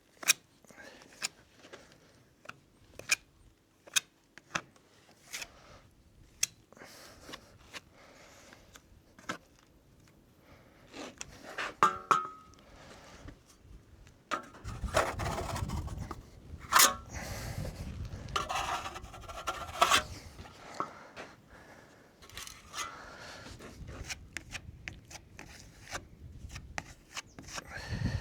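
Body filler (bog) being spread and pressed into holes in a hardwood verandah post with a spreader: scattered taps and short scrapes, then a run of louder scraping strokes about halfway through.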